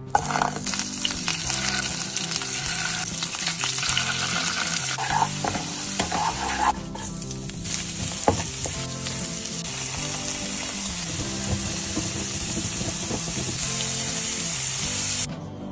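Butter and shredded vegetables sizzling as they are stir-fried in a nonstick frying pan, with a spatula stirring. The steady hiss cuts off suddenly near the end.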